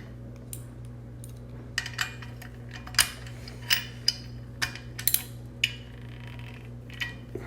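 Small metal parts of an acetylene gas regulator clicking and clinking as they are handled and fitted together: about a dozen sharp, irregular clicks starting about two seconds in, over a steady low hum.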